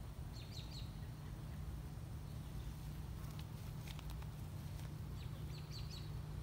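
A bird calling outdoors: a short phrase of three or four quick, high, falling notes, given twice about five seconds apart, over a steady low rumble. A few faint clicks fall in between.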